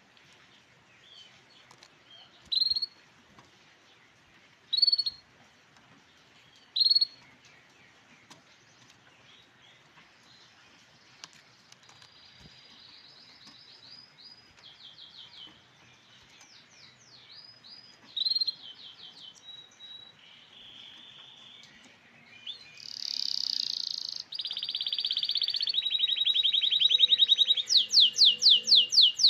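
Grey canary calling and singing: three single rising call notes a couple of seconds apart, then song phrases that build into loud, fast trills near the end.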